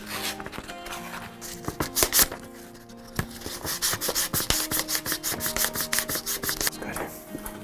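Hand sanding of a wooden screwdriver handle: quick back-and-forth rubbing strokes, most rapid and even through the second half at about five a second, over background music.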